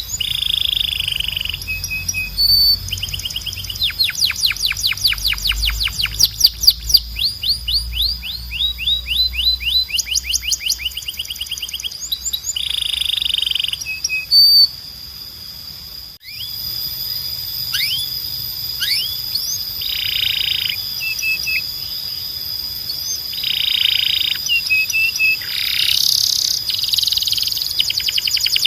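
Belgian canary singing: long runs of fast trills, each of rapid repeated sweeping notes, broken by short rasping phrases. A steady high tone runs underneath, and the song briefly drops away about halfway through.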